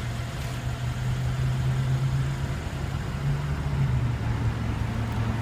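A car engine idling: a steady low hum that steps down slightly in pitch about three and a half seconds in.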